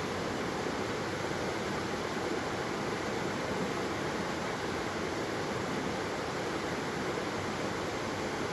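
Steady rushing of flowing water from a waterfall, an even, unbroken wash of noise with no changes.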